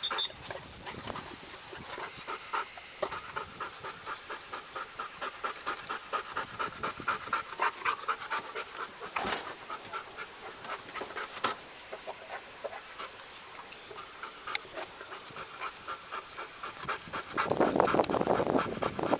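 A hunting retriever panting in quick, even breaths. A louder, rougher noise comes in near the end.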